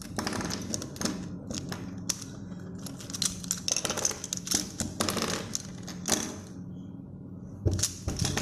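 Plastic 3x3 puzzle cube being taken apart by hand: irregular clicks and rattles as the cube is twisted and its pieces are pried out, with a short lull about two-thirds through.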